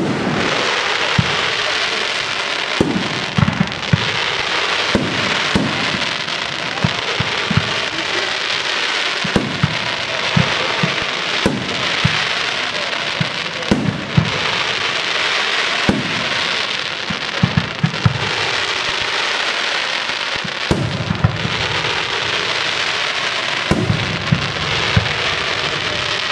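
Professional fireworks display: a steady, dense crackle with many sharp bangs of bursting shells throughout, some coming in quick clusters.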